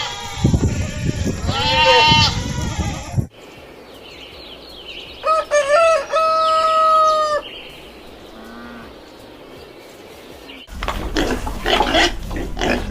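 Loud wavering bleats in the first three seconds. After a cut, a rooster crows once, a long call of about two seconds. About two seconds before the end, pigs start grunting and squealing in a dense, rough run.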